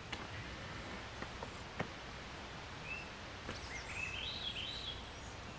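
Steady outdoor background hiss with a few sharp ticks, then a short run of high bird call notes about three to five seconds in.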